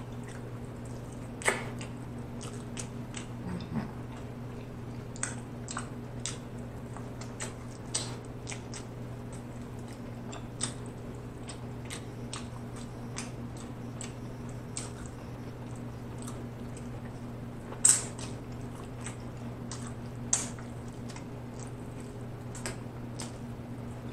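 Close-miked chewing of barbecue ribs: scattered wet mouth smacks and clicks, two louder ones about three-quarters of the way through, over a steady low hum.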